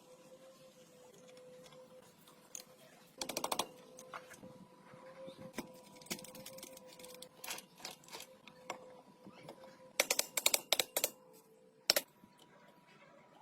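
Sharp clicks and taps of hand tools on motorcycle parts: a quick rattling run a few seconds in, scattered single clicks, then a dense cluster near the end. A faint steady hum runs underneath.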